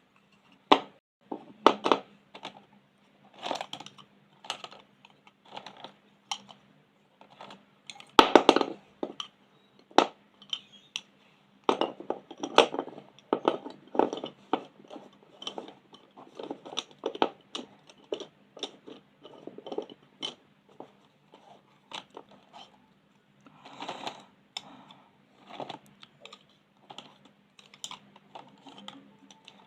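Pen and pencil strokes scratching on paper in short, irregular bursts, with sharp clicks and taps in between, over a faint steady hum.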